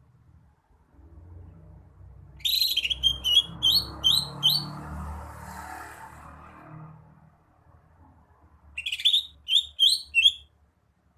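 Green leafbird (cucak hijau) singing two short bursts of quick, sharp, high hooked whistles, five or six notes each, the first about two seconds in and the second about nine seconds in. A soft low rumble sits underneath the first burst.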